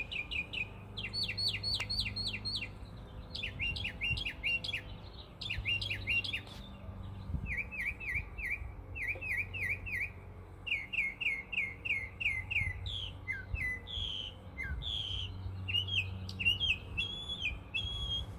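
Mockingbird singing: a run of varied phrases of quick, clear notes, each phrase repeated several times before it switches to a new one.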